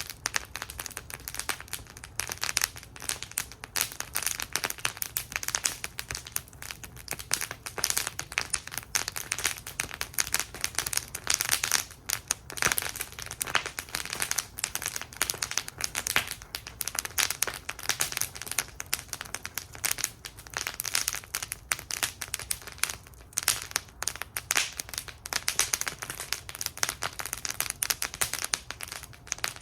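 Wood fire burning in a metal fire bowl, crackling and popping constantly with dense sharp snaps.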